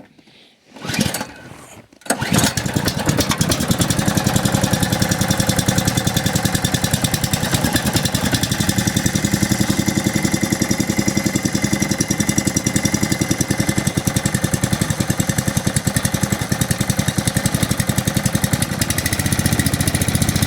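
Snowblower's 6.5 hp 208 cc Power Fist single-cylinder engine being pull-started in the cold, catching on the second pull about two seconds in, then running steadily.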